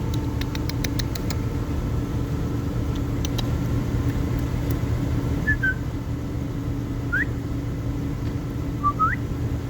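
Steady low mechanical hum, with a quick run of ticks in the first second or so. Three or four short, rising chirps from a bird come in the second half.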